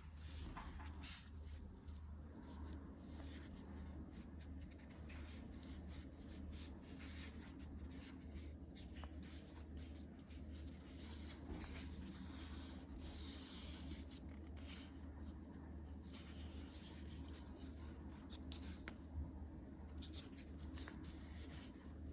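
Faint, irregular scratching and rubbing with light clicks, as of hands scraping and handling a vintage ink blotter, over a steady low hum.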